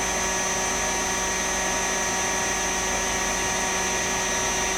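Airquip 15 kW oil-injected variable-speed rotary screw compressor running steadily under load, pumping its closed tank up toward full pressure of 8 bar. A constant mechanical hum with a steady high-pitched whine.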